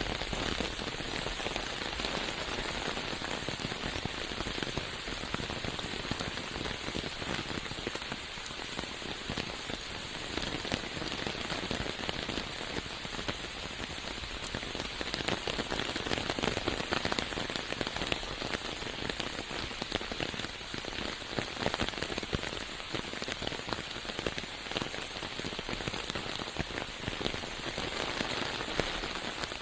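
Steady rain falling in a forest, a dense, even patter of many drops.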